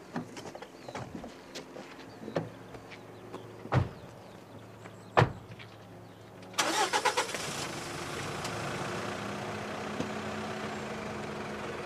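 Two sharp thumps, then a car engine starts about six and a half seconds in and runs steadily.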